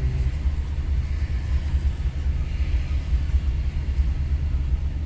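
Strong gusty wind from an approaching typhoon buffeting the microphone: a loud, steady low rumble with a faint hiss above it.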